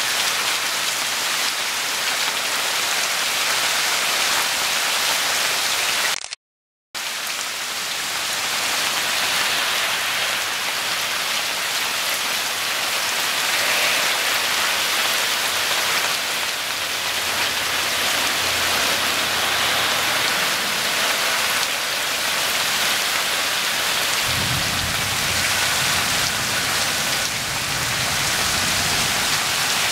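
Heavy rain pouring steadily onto a waterlogged yard during a rainstorm. The sound cuts out completely for about half a second some six seconds in, and a low rumble joins the rain near the end.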